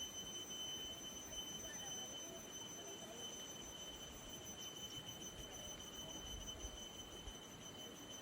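Quiet rural ambience with a steady high-pitched insect drone, like crickets, over a faint low background murmur.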